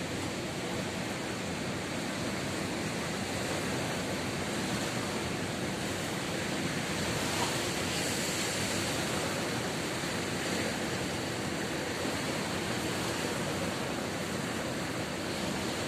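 Ocean surf washing steadily onto the beach, swelling slightly about halfway through.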